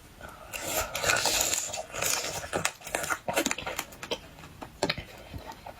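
Close-up eating sounds while eating shellfish: a couple of seconds of noisy sucking near the start, then scattered crunches and clicks of chewing.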